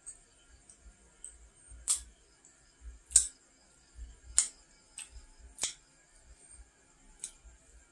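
Close-miked mouth sounds of someone chewing a fried nom krouch dessert: about six sharp, wet clicks and crunches spaced roughly a second apart, each with a soft low thump from the jaw.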